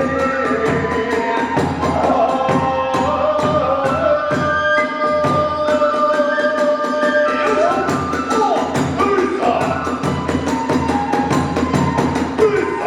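Hiroshima kagura hayashi: a bamboo transverse flute playing a gliding melody over fast, continuous drum beats and clashing small hand cymbals.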